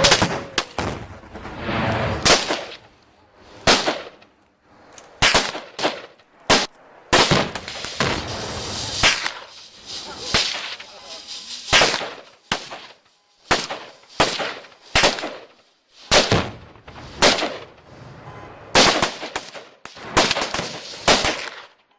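Several guns firing in an irregular volley after a fire command: about two dozen sharp shots over twenty seconds, some in quick pairs, each with an echoing tail.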